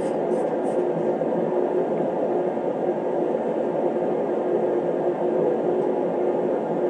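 Steady whirring of a shop space heater running, with a constant hum under it; a few faint ticks in the first second.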